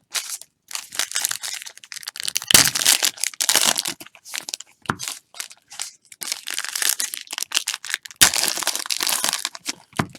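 Foil wrappers of trading card packs crinkling and tearing as packs are ripped open, in irregular bursts with small clicks from handled cards.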